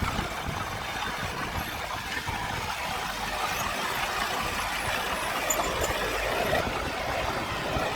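Engine of heavy earthmoving machinery, a small bulldozer or dump truck, running steadily at an even level, with faint brief high squeaks partway through.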